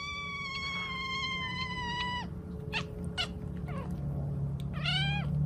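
A cat meowing: one long, drawn-out meow that holds steady and cuts off about two seconds in, a few faint clicks, then a shorter meow near the end.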